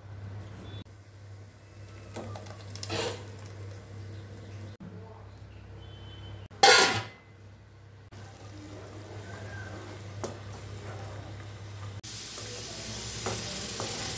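Onion masala sizzling in oil in a pan while a wooden spatula stirs and scrapes it. There is one loud, short burst of noise about two-thirds of the way through, and a louder steady sizzle near the end.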